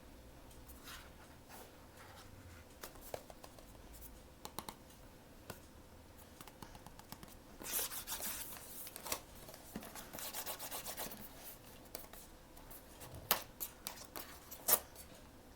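Hands opening blind-box packaging: crinkly rustling and tearing in two stretches, with scattered clicks and taps, the sharpest two near the end.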